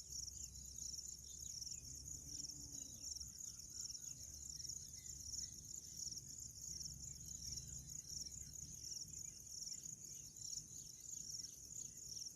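Crickets chirring: a continuous, high-pitched pulsing trill that holds steady throughout. Under it there is a low rumble, which fades about nine seconds in.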